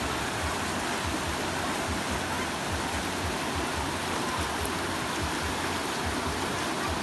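Steady rushing water, an even unbroken noise like a waterfall or fast stream.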